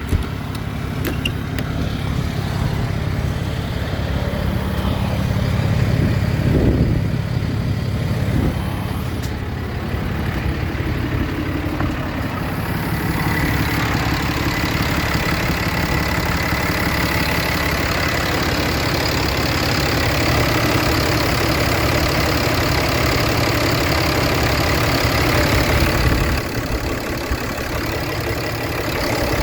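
Dodge 5500 service truck engine idling steadily, with a thin steady high whine joining about halfway through.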